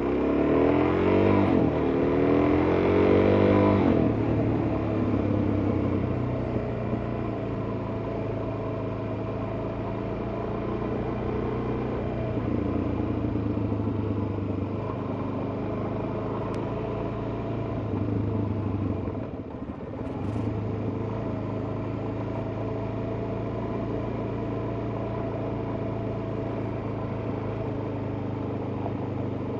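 Suzuki DR-Z400S single-cylinder four-stroke engine running under way. The revs climb several times in the first few seconds, then it runs steadily at cruising speed, with a brief drop in revs about twenty seconds in.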